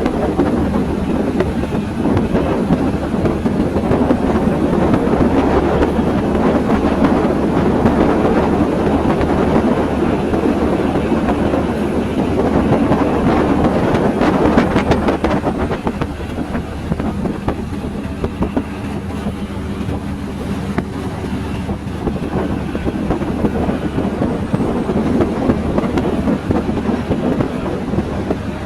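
Passenger train running on the rails, heard from aboard: a steady rumble and rattle of the carriage, with a short run of sharp clicks about halfway through.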